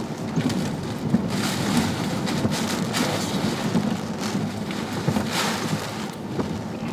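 Hurricane-force wind with driving rain, rushing and buffeting the microphone with a heavy low rumble, surging in repeated gusts.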